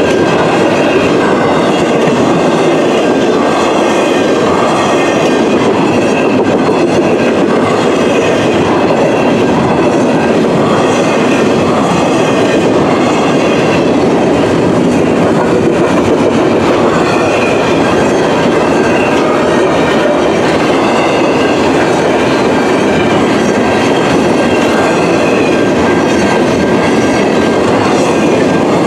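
Double-stack intermodal container well cars rolling past on the rails, wheels on rail making a steady, loud running noise with thin high tones above it.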